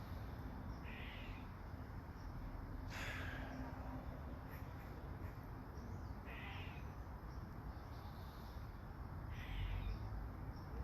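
A bird calling: about four short, harsh calls spaced a few seconds apart, the second one the loudest.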